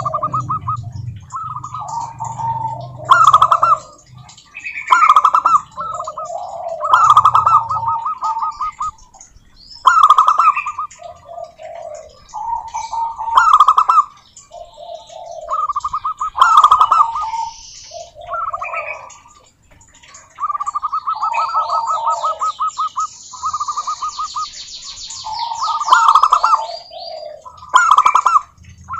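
Zebra doves (perkutut) singing: one rhythmic, rapid cooing phrase after another, with short gaps between them. Higher chirps from small birds come in now and then, longest near the end.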